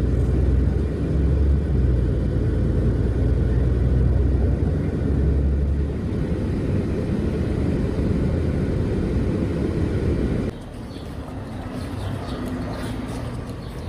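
Steady low rumble of a moving vehicle. About ten seconds in it cuts off abruptly to quieter background noise.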